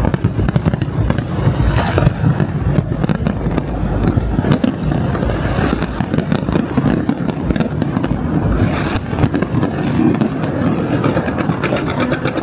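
Fireworks display going off in a dense, continuous barrage of bangs and crackles, with a run of rapid, evenly spaced cracks near the end.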